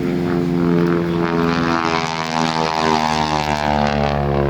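Propeller airplane flying past low and loud, its engine and propeller drone falling in pitch as it goes by.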